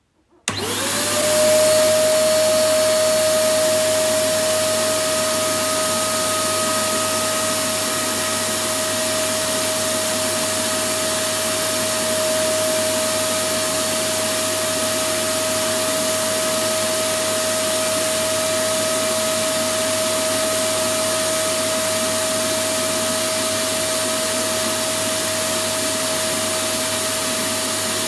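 Electric vacuum cleaner switched on about half a second in, its motor spinning up to speed with a rising whine, then running steadily: an even hiss of rushing air with a constant motor whine.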